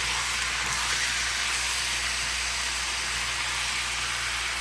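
Seasoned chicken pieces sizzling steadily in a pan of hot coconut oil and caramelized brown sugar.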